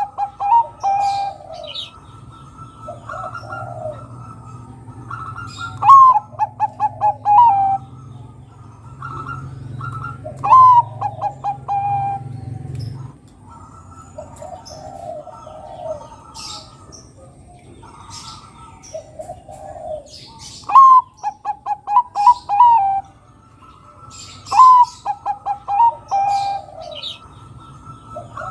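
Zebra dove (perkutut, Bangkok type) cooing. Its song comes every few seconds: a higher opening note, then a quick run of short coos, with softer coo phrases in between.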